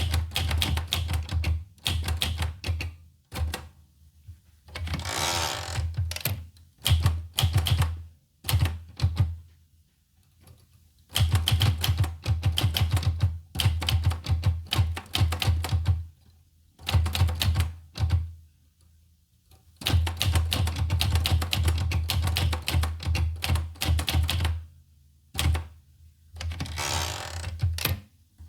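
Olivetti Lettera 25 portable manual typewriter being typed on: quick runs of sharp key strikes with pauses between, and twice a longer rasping slide of the mechanism lasting about a second.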